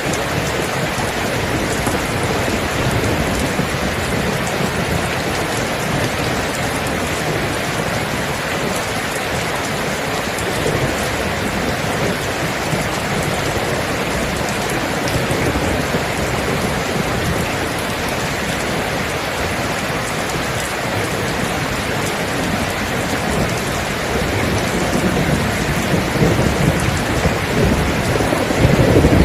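Steady heavy rain, a dense even hiss, with thunder rumbling low in the background. The rumble swells louder over the last few seconds.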